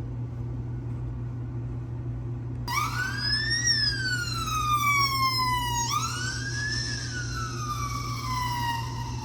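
Police motorcycle siren switching on about three seconds in and wailing, its pitch rising quickly and then falling slowly in cycles of about three seconds, over a steady low hum.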